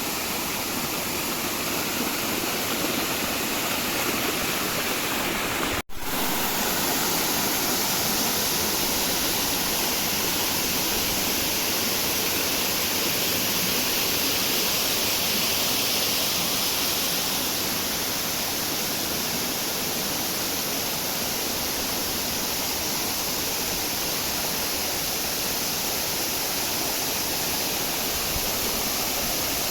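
A waterfall's falling water rushing steadily, with a momentary gap about six seconds in.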